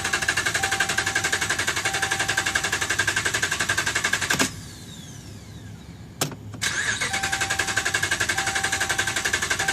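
2011 Ram 1500's starter cranking the engine rapidly and evenly without it catching: a crank-no-start, which the owner traced to a defective TIPM (Totally Integrated Power Module). Cranking stops about halfway through, a click follows, and cranking starts again; a beeping tone repeats in short pulses while it cranks.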